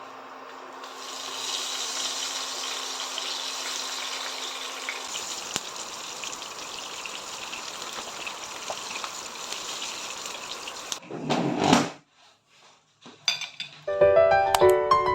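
A steady hiss that starts about a second in and runs for about ten seconds, with a low hum under it for the first few seconds. A brief loud swish follows, then piano music begins near the end.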